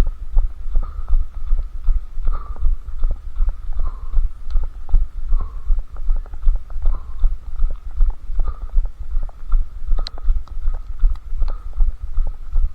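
A runner's footfalls at a steady running pace, heard through a head-strapped camera as dull, low thuds about three times a second.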